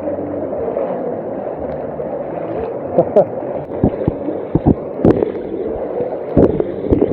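Floodwater sloshing and gurgling, steady throughout, with a few sharper splashes in the second half.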